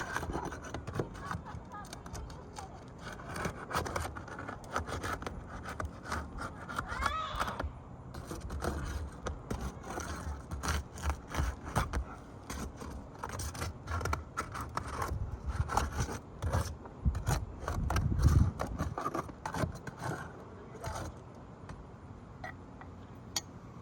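Scraping, rubbing and clicking on an asphalt shingle roof, shingles being handled and worked in an irregular run of strokes.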